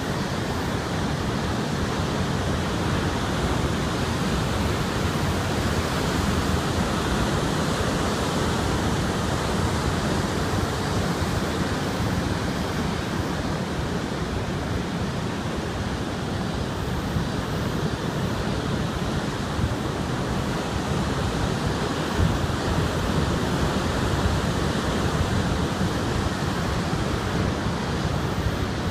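Typhoon wind and heavy surf on a beach: a loud, steady rush of noise, with wind buffeting the microphone.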